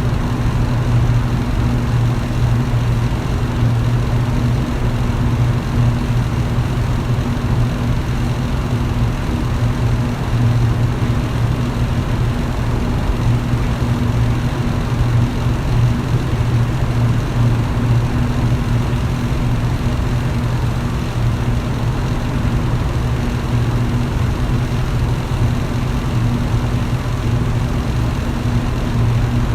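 Electric fan running steadily at one speed: a constant low motor hum under an even rush of air, with no change in speed or level.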